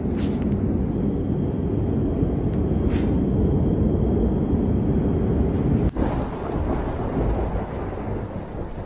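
Thunder rumbling deep and continuously in a thunderstorm, with two brief sharp cracks near the start and about three seconds in. The sound breaks off abruptly about six seconds in, and the rumble carries on, easing toward the end.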